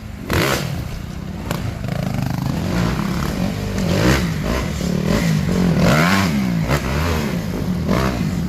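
Dirt bike engine revving, its pitch rising and falling again and again as the throttle is worked, with a few brief knocks.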